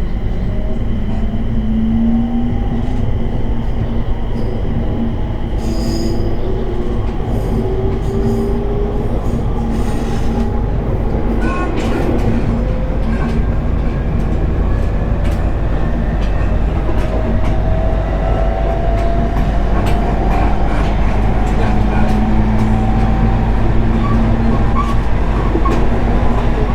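Running noise inside a JR East 701 series 1000-subseries electric train: a steady low rumble with the motors' whine slowly rising in pitch as the train gathers speed, and clicks of the wheels over rail joints.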